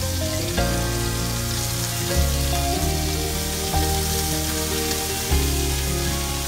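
Kalabasa squash and bitter gourd sizzling in oil in a wok, under instrumental background music whose bass note changes about every second and a half.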